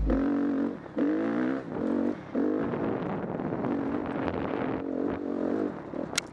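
Dirt bike engine revving up and down repeatedly as the throttle is worked, its pitch rising and falling in several swells. A sharp click comes near the end.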